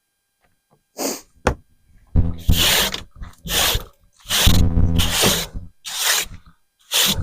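An empty plastic storage container dragged across the ground in short pulls, giving a run of scraping noises about every second after a sharp click.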